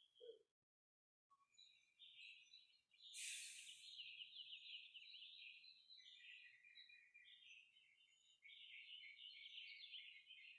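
Faint chirping of small songbirds, many quick chirps and trills overlapping, with a brief rush of noise about three seconds in.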